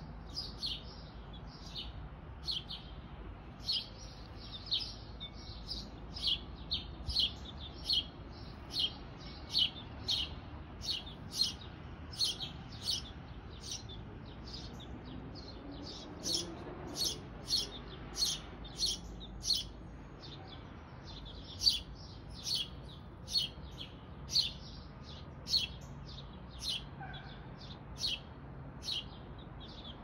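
A small songbird chirping over and over at a birdhouse: short, high chirps, roughly one or two a second, with a short pause about halfway through.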